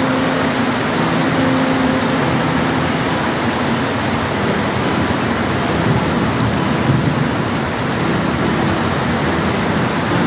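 Steady rain falling, a dense even hiss. A faint low hum sits underneath near the start and again at the very end.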